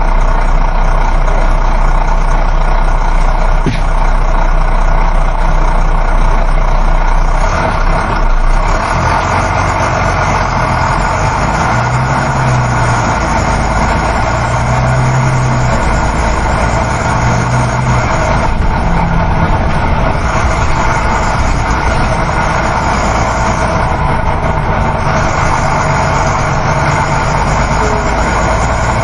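Interior of a moving coach bus: the steady drone of the diesel engine under road and tyre noise. The low engine note shifts about eight seconds in, then swells and eases in short stretches.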